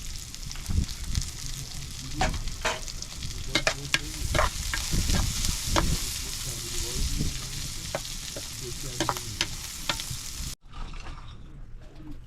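Food sizzling and frying in a pan while it is stirred, with utensils clinking and scraping against the pan. The sizzle cuts off abruptly near the end, leaving a few quieter clinks.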